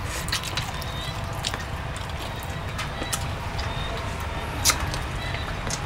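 Close-up eating sounds of a man chewing fried rat meat: wet chewing and lip smacks, with scattered sharp clicks, the loudest a little before the end.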